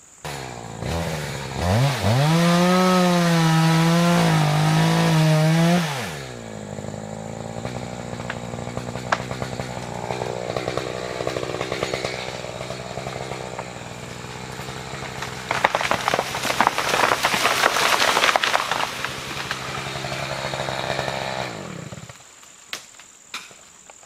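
Echo CS-590 two-stroke chainsaw running at high, wavering revs as it cuts into an elm, then dropping to a steady idle about six seconds in. Later comes a few seconds of dense crackling and crashing as the elm comes down through the branches. The saw cuts off near the end.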